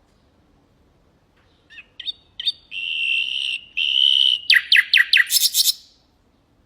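Common nightingale singing one song phrase: a few short notes, then two long steady whistled notes, then a fast run of loud, sharp notes that stops about six seconds in.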